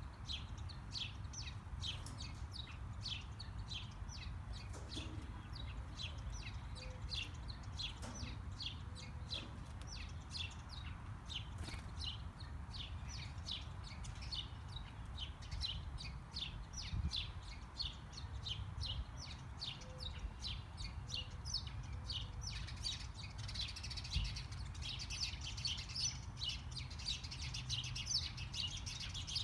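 Small birds chirping over and over in quick short notes, becoming a denser chatter near the end, over a steady low rumble.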